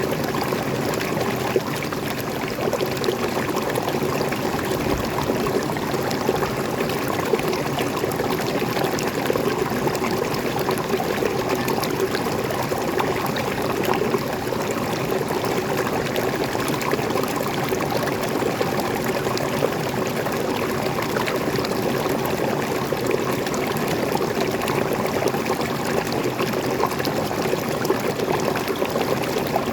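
Small forest waterfall and stream: water pouring and splashing in a steady, unbroken rush.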